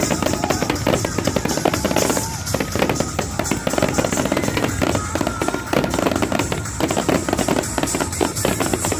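Fireworks grand finale: a dense, continuous barrage of bangs and crackles, many a second, with music playing under it.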